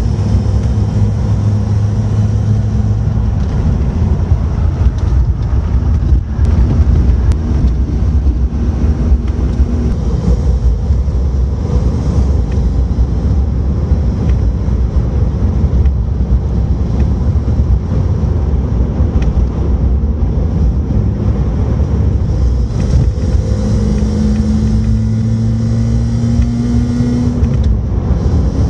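Sports car engine running with a heavy steady rumble; near the end the engine note rises slightly in pitch.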